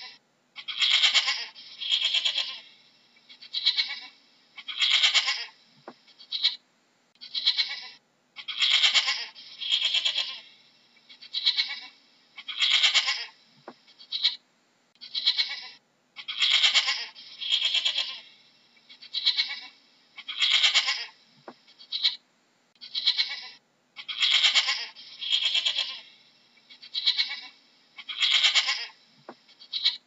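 Domestic goat bleating over and over, short wavering calls about one a second, in a sequence that repeats every eight seconds or so like a loop, with a faint click each time it restarts.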